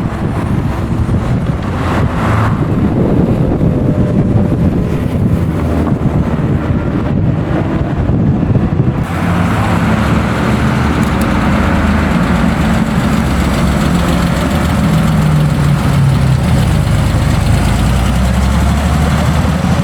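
Car engine running at low revs with a steady low rumble; about nine seconds in a broader hiss joins it, and later the engine note rises and falls a little.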